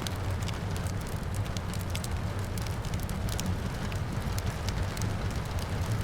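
Wood fire crackling, with many sharp irregular pops, over a steady low rumble and the hiss of rain falling outside.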